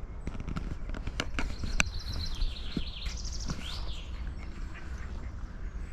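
A small bird singing a short, high trilling phrase about two to four seconds in, over a steady low wind rumble, with a few sharp knocks in the first two seconds.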